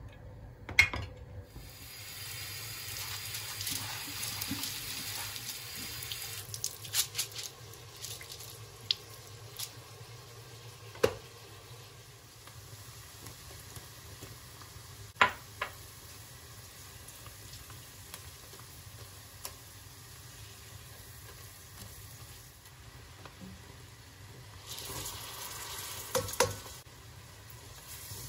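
Kitchen sounds: water runs from a tap for a few seconds near the start and again briefly near the end, with a few sharp clinks or knocks of dishes and utensils in between.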